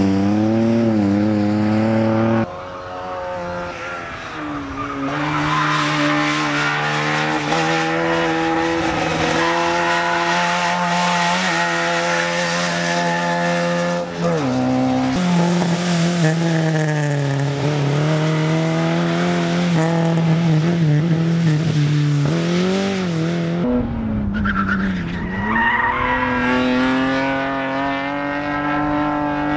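Competition cars driven hard through a slalom course: engines revving up and dropping back again and again through the gears, with tyres squealing. The engine sound changes abruptly a few times, about two seconds in, midway and near the end.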